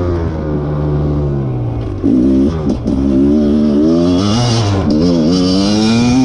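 Rieju MR 300 two-stroke enduro motorcycle engine being ridden hard, revving up and down with the throttle so its pitch rises and falls again and again, louder from about two seconds in.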